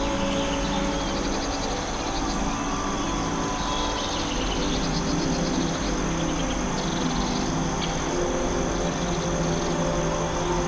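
A forest chorus of calling frogs and insects, with short pulsed trills repeating every couple of seconds over a steady high hum. Soft ambient music plays underneath in long sustained tones.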